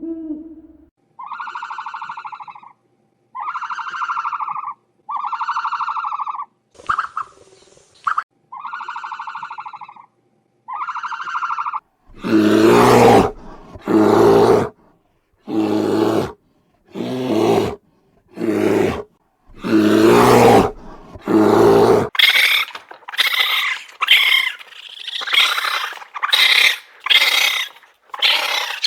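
A series of animal calls in three runs. First come six evenly spaced tonal calls of about a second each. Then come loud, harsh roaring calls about once a second. Last come shorter, higher-pitched cries in quick succession.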